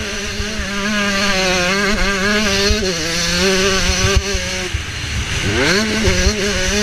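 Motocross bike engine pulling hard, its pitch held fairly steady for several seconds, then dropping as the throttle is shut about five seconds in and rising sharply as it is opened again near the end. Wind rush over the helmet-mounted microphone runs underneath.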